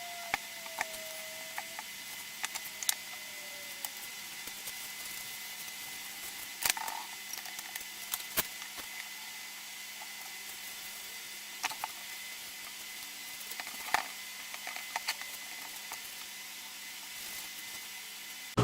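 Scattered light clicks and knocks, a few at a time, over a steady faint hiss and hum.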